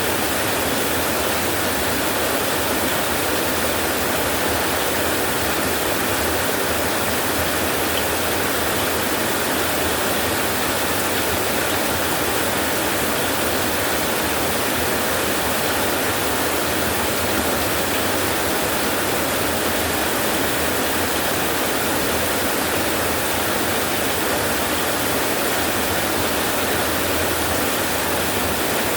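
Heavy rain falling steadily: a dense, even hiss with no breaks and no thunder.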